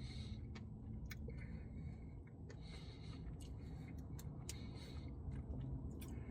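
Faint eating sounds while nibbling a cookie dough Blizzard: scattered small mouth clicks and soft smacks with quiet breathy rustles between them.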